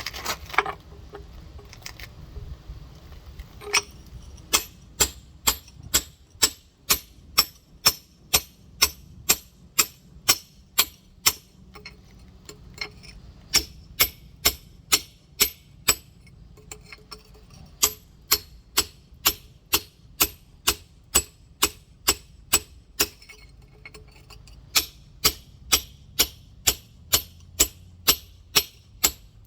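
Rock hammer tapping on a large geode in steady runs of light, sharp strikes, about three a second, with short pauses between runs, working a crack along a line to split the stone.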